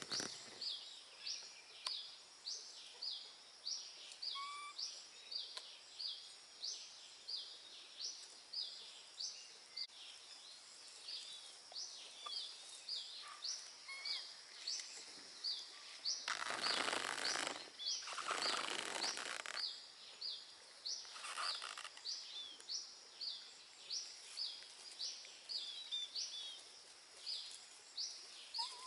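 A bird calling in a steady series of short high chirps, about two a second, with a few seconds of rustling noise a little past the middle.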